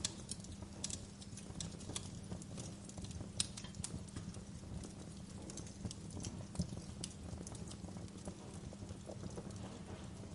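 Wood fire crackling in a fireplace: irregular sharp pops and snaps at uneven intervals over a steady low rumble of the burning fire.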